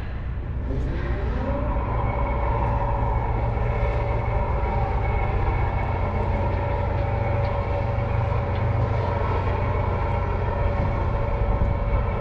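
An engine rising in pitch about a second in, then running steadily at that speed with a strong low hum.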